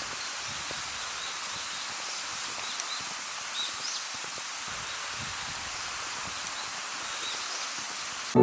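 Steady rushing of a waterfall, an even hiss of falling water, with a few faint bird chirps over it.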